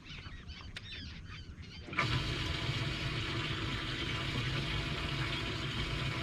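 Birds calling over the water with short, curving cries, then about two seconds in the sound switches abruptly to a boat's outboard motor running with steady wind and water noise.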